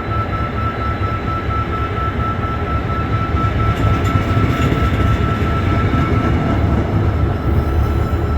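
A train moving through a station: a heavy low rumble that grows somewhat louder about halfway through, with a steady high-pitched tone that stops about three quarters of the way in.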